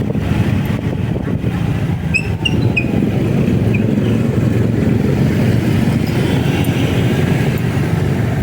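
Steady wind and road noise from a motorcycle being ridden, with a few short high chirps about two seconds in.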